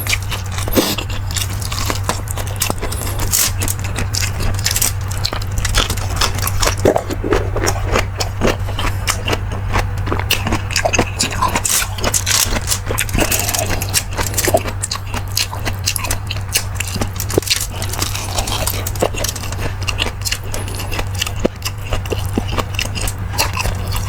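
A person eating beef marrow stew close to the microphone: chewing and mouth sounds with frequent small clicks and clinks, over a steady low hum.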